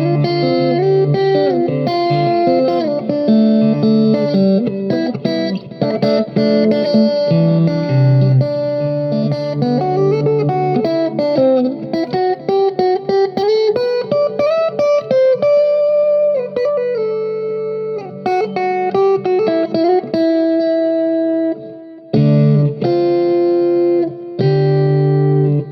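Guitar playing a melody of single plucked notes, some bent or slid in pitch, with a couple of short pauses near the end.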